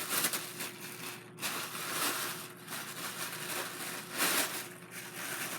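Packing material rustling and crinkling as a wrapped helicopter part is handled and unwrapped, with a louder crinkle about four seconds in.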